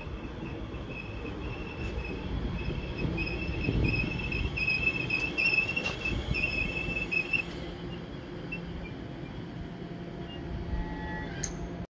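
Elizabeth line Class 345 electric train running alongside the platform, its wheels giving a high, steady squeal for the first seven seconds or so over a continuous rumble. The rumble then carries on steadily without the squeal.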